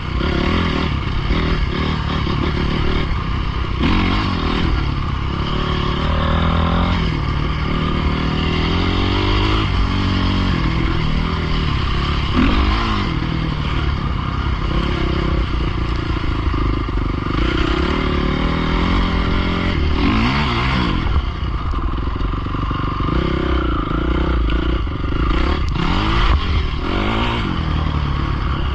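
Dirt bike engines running and revving, their pitch climbing and falling again and again with the throttle. Several times a bike sweeps past with a quick swoop in pitch.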